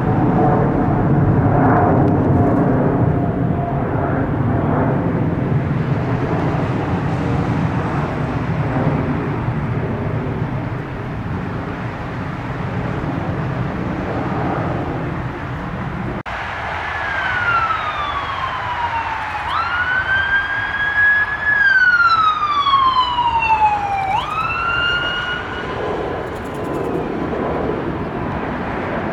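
A loud low rumble for the first half, then, after an abrupt cut, an emergency-vehicle siren wailing in slow falling sweeps that jump back up in pitch, settling into a steady tone near the end.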